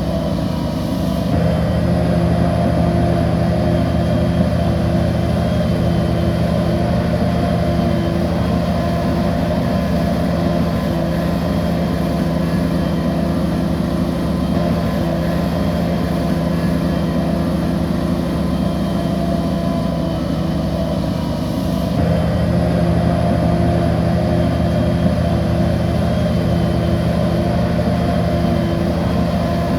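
Bulldozer diesel engine running steadily under load, its sound shifting abruptly about a second and a half in and again about 22 seconds in.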